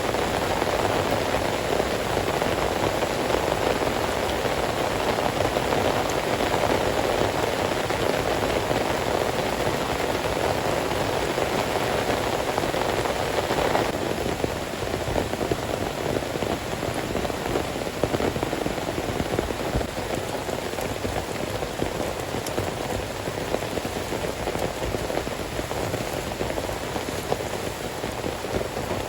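Heavy rain falling steadily, a dense hiss of drops that eases a little about halfway through.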